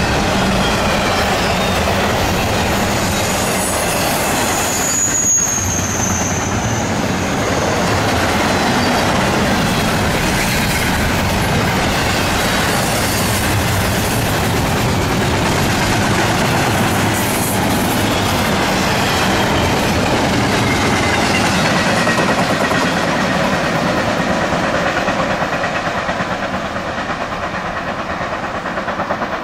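Double-stack intermodal container train's wheels rolling over the rails at speed, a steady clatter of wheels over rail joints. A brief high squeal comes about five seconds in. The sound eases off a little near the end as the last car moves away.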